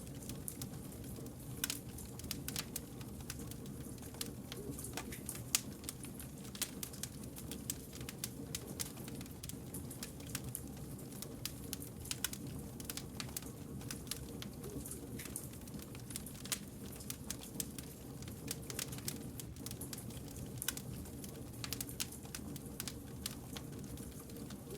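Wood campfire burning, with logs crackling in quick, irregular sharp pops over a steady low rumble of the flames.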